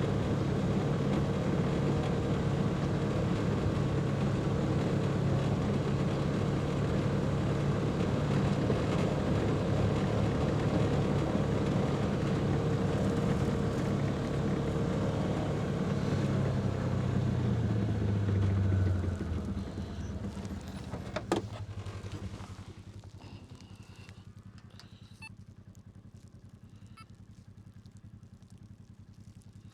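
A Ranger utility vehicle's engine running as it drives. Its pitch falls as it slows, and about 19 to 22 seconds in the engine sound fades away. A sharp click comes about 21 seconds in, then only faint ticks and small sounds remain.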